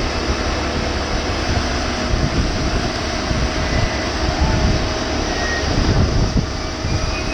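Steady, loud noise of jet aircraft on the airport ramp, with a fluctuating low rumble like wind buffeting the microphone.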